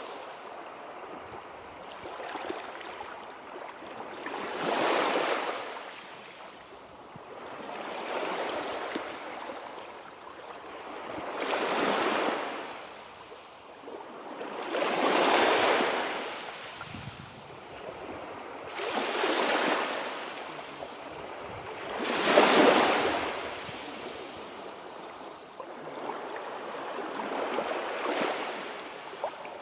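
Sea surf: waves breaking and washing in, a swell of rushing water about every three to four seconds, seven in all, the loudest near the end.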